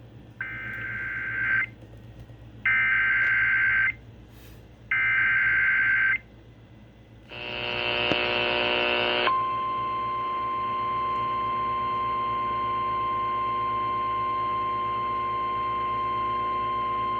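Emergency Alert System signal over broadcast radio. Three short bursts of screechy digital header data come first, then a harsher buzzing tone of about two seconds. After that a single steady high alert tone holds for about nine seconds, announcing a National Weather Service severe thunderstorm warning.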